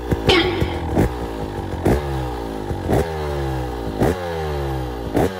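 2024 KTM 250 EXC TBI Six Days two-stroke enduro engine being revved in short throttle blips about once a second, the revs dropping back toward idle after each blip. The bike is brand new and not yet run in.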